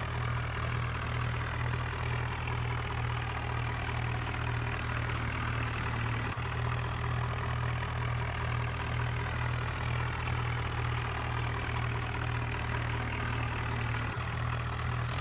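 New Holland tractor's diesel engine running steadily, a low, evenly pulsing drone.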